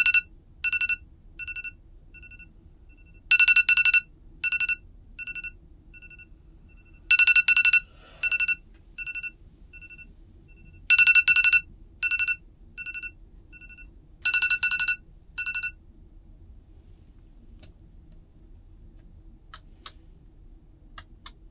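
Electronic phone ringtone: a high beeping figure that repeats about every four seconds, each round starting loud and dying away, then stops about sixteen seconds in. A low steady hum sits underneath, with a few faint clicks near the end.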